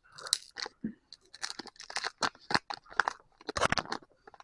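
Foil wrapper of a Pokémon trading-card booster pack being torn open and handled: a run of irregular sharp crackles and crinkles.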